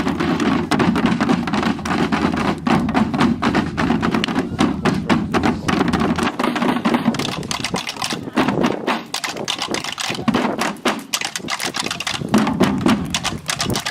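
A group of drummers playing hand drums, a dense run of quick, uneven strikes.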